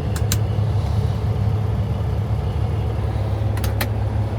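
Peterbilt semi truck's diesel engine idling with a steady low hum, heard from inside the cab. Two pairs of short sharp clicks sound, one just after the start and one about three and a half seconds in.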